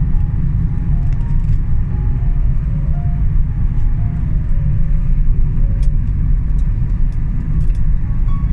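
A loud, steady low rumble with a faint melody of single keyboard notes over it.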